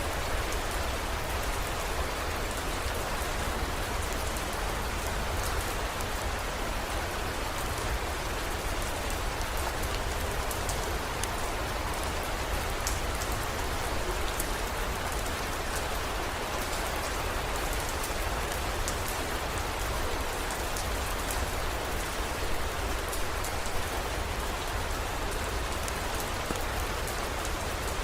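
Steady heavy rain, with scattered sharp drop ticks over a constant low rumble.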